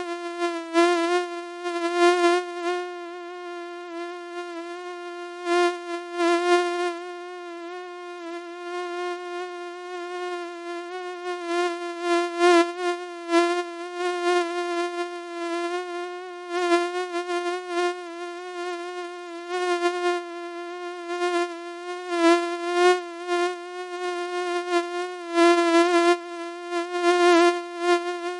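Mosquito wing whine: a steady, high-pitched buzz with a slightly wavering pitch. It swells louder and fades again every second or two, as if flying close past the ear and away.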